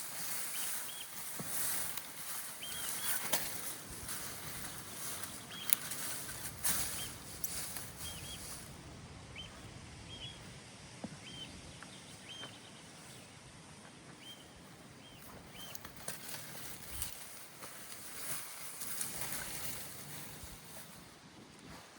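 A small bird calling with short chirps, repeated every second or so, over rustling and a few sharp snaps or clicks that are busiest in the first third.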